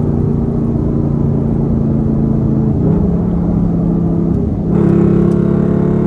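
Straight-piped Dodge Durango SRT's Hemi V8 exhaust droning steadily under way. Its pitch steps down slightly about three seconds in, then after a brief dip near the five-second mark it comes back louder as the throttle opens.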